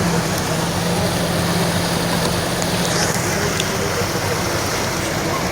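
Boat engine running steadily under a constant rushing noise, with its low hum changing about three seconds in.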